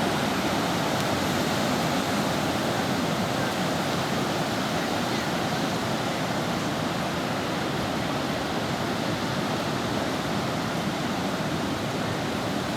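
Steady rushing of surf breaking on the beach, an even wash of water noise.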